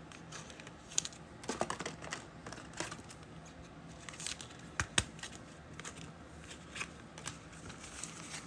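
Faint rustling and crinkling of trading cards and a foil pack wrapper being handled, with scattered light clicks and one sharper click about five seconds in.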